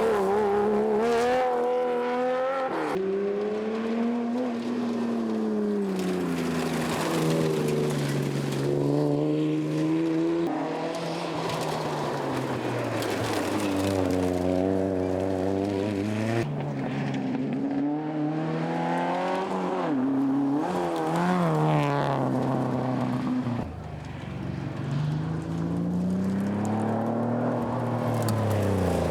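Rally car engines revving hard, their pitch climbing and dropping again and again as the cars accelerate and lift off. The sound changes abruptly several times, from one car to the next.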